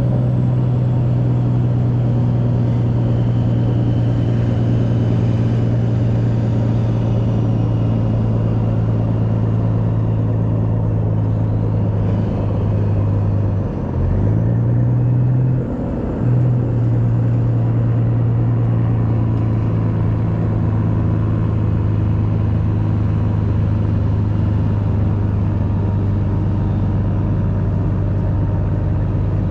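Heavy truck's diesel engine running steadily with a low hum, its pitch and level dipping briefly twice about halfway through.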